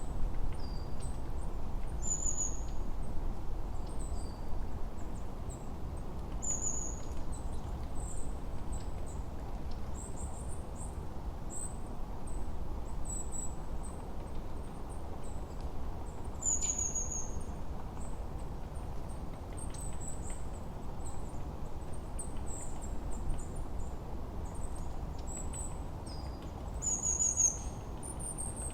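Forest ambience of songbirds: many short, very high chirps and trills, including a quick falling note that comes back every few seconds, over a steady low rushing background.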